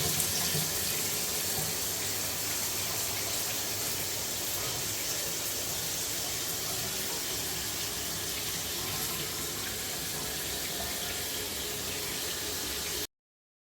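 Shower running: a steady hiss of water spraying from the shower head, cutting off suddenly near the end.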